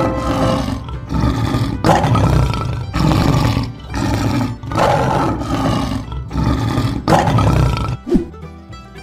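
A string of lion roar sound effects, one after another about once a second, over background music.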